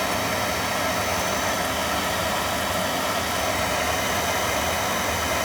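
Boiler burner running steadily just after lighting off, a constant rushing hum with no change in level.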